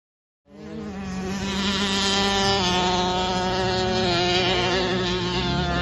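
Small mini motocross bike engine running with a high, buzzy note, cutting in abruptly about half a second in and holding fairly steady revs with small shifts in pitch.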